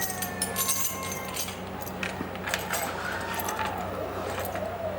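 Light metallic clinks and clicks of metal tools against sheet metal during body-panel dent repair, irregular and scattered, over a steady low hum.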